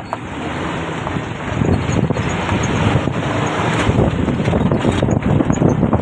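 Mahindra Bolero's engine pulling hard on an off-road climb, with wind buffeting the microphone. It grows louder over the first second and a half, then holds.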